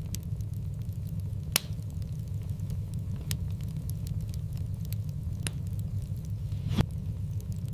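Wood fire burning in a fireplace: a steady low rumble under light crackling, with a few sharp pops, the loudest about a second and a half in and near the end.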